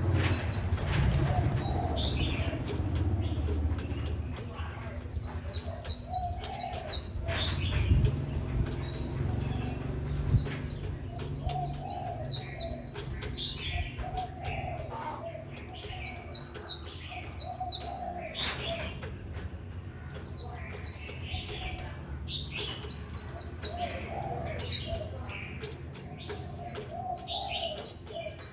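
White-eye (vành khuyên) singing in the 'líu bệt' style: fast runs of high twittering notes in phrases of one to three seconds, repeated about seven times with short pauses.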